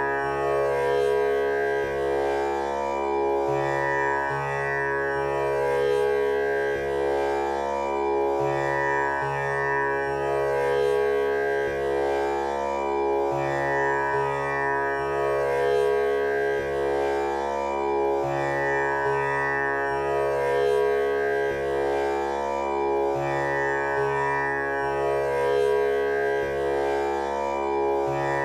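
Tanpura drone tuned to C# for a male voice: its strings plucked one after another in a steady cycle that repeats every few seconds, each note ringing on under the next.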